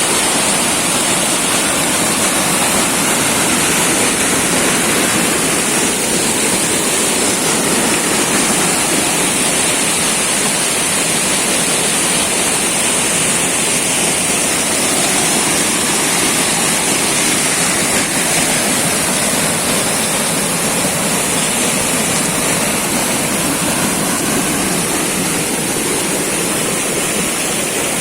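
Waterfall: water pouring and rushing in a steady, loud, unbroken roar.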